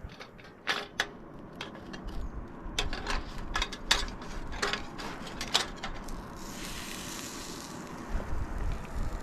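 Sharp metal clicks and clanks as a sandwich toaster is handled and opened, over a low wind rumble, with a brief hiss a little past the middle.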